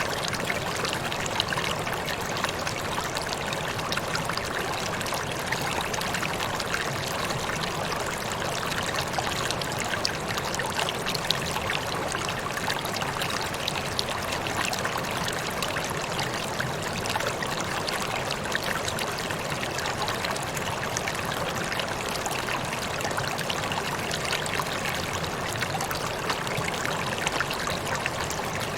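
Waterfall: water falling and splashing in a steady, even rush, with fine splatter on top.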